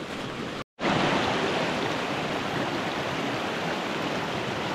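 Creek water running steadily, a dense even hiss. It breaks off for a moment less than a second in, then comes back louder.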